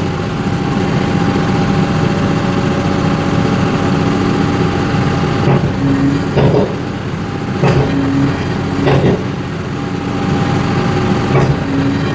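Daedong MX100 tractor's diesel engine running steadily at about 1400 rpm, driving a hydraulic log-splitting axe. Three times in the second half, as the axe strokes, a brief hydraulic hum and sharp knocks come over the engine.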